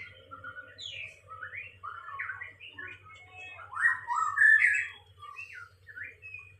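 A songbird chirping and squawking in a rapid run of short, varied, gliding calls, loudest about four seconds in, over a steady low hum.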